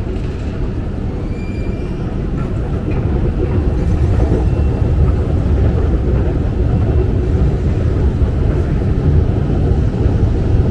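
Steady low rumble of London Underground station ambience, growing louder about four seconds in.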